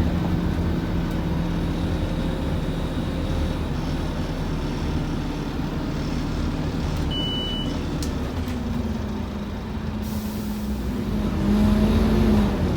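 Scania N230UD bus's five-cylinder diesel engine running under way, heard from on board, with a steady hum and road noise. The engine gets louder near the end. A short high beep sounds about seven seconds in.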